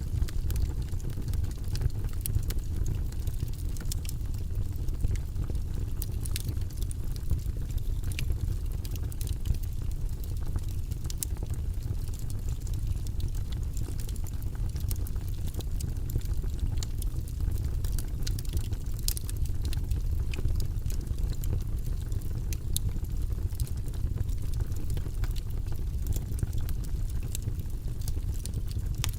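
Wood logs burning in a fireplace: a steady low rumble of the flames with scattered, irregular sharp crackles and pops from the burning wood.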